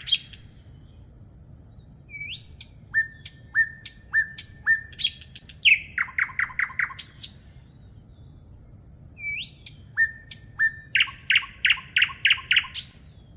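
A songbird singing two song phrases a few seconds apart. Each phrase opens with a string of short, evenly spaced notes and finishes with a quick, louder run of higher notes.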